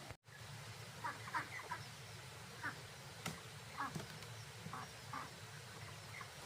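Farmyard poultry calling in short, scattered clucks and quacks over a steady low background. There is a brief gap of silence just after the start and a single sharp click about three seconds in.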